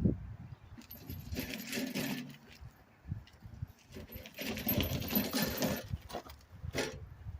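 Metal clinking and rattling from equipment being handled, in two bouts of a second or two each, with a short sharp clink near the end.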